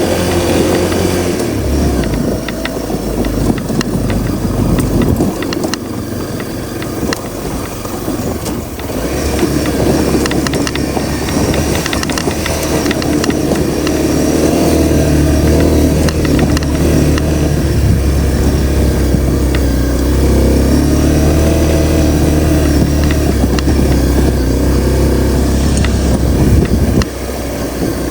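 Honda CRF250L's single-cylinder four-stroke engine running while riding, its pitch and loudness dipping and rising with the throttle, then holding steady through the second half before dropping off sharply near the end.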